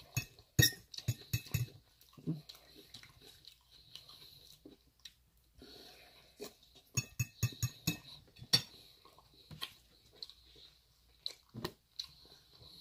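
A person chewing and biting food, with wet mouth sounds and clusters of sharp clicks and taps, including a metal fork tapping a ceramic bowl.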